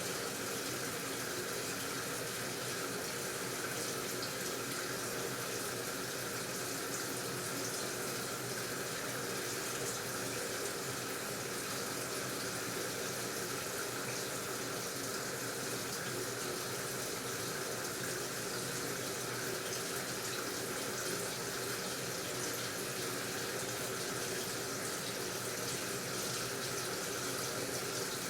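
AQUA washing machine with a steady rush of running water in the tub, with no pauses or rhythm, and a faint steady hum underneath.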